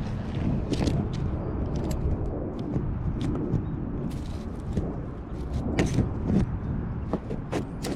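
Handling noise from the camera being set in place: scattered knocks and rubs over a steady low rumble.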